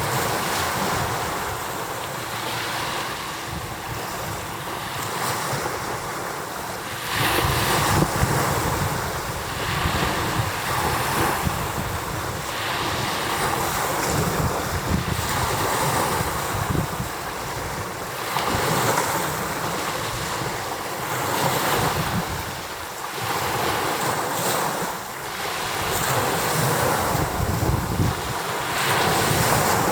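Rough sea with waves beating against the shore, surging and easing every few seconds. Strong wind runs under it and buffets the microphone.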